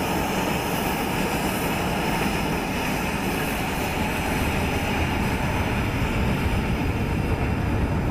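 Jet aircraft engine noise: a steady rushing sound with no breaks.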